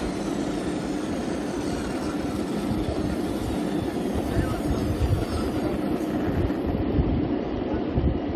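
Small single-motor electric skateboard being ridden: a steady rumble of its wheels rolling over the ground.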